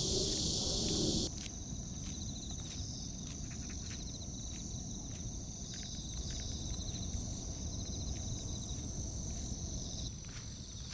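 A chorus of crickets and other insects chirping: steady high-pitched trilling with short repeated pulsed trills. It starts after a loud rushing noise that cuts off abruptly about a second in.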